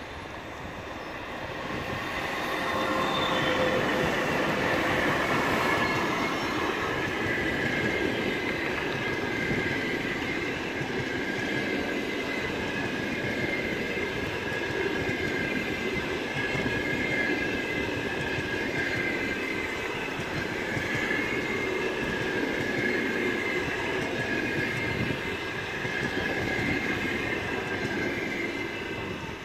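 Passenger train hauled by a ChS7 electric locomotive rolling past: dense wheel clatter over the rails with a steady high-pitched ringing. It swells to full loudness within the first few seconds and stays loud as the carriages go by, easing just before the end.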